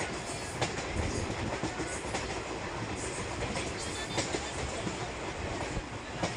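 Passenger train running at speed, heard from aboard the coach: a steady rumble of wheels on rails with scattered irregular clicks.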